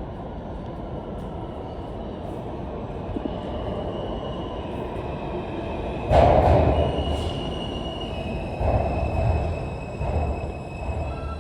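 R160 subway train running through the station: a steady rumble that builds, surges suddenly about six seconds in, then swells twice more, with thin high squealing tones over it.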